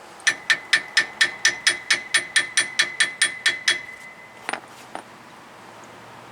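A hammer tapping rapidly on a brake caliper, about four light metallic strikes a second with a ringing tone, stopping after a few seconds and followed by two more taps. The tapping knocks trapped air bubbles loose during bleeding.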